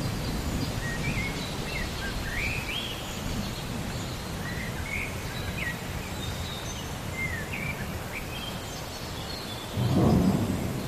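Steady rain with a low rumble of thunder underneath, and small birds chirping in short, quick phrases. Near the end a louder roll of thunder swells up.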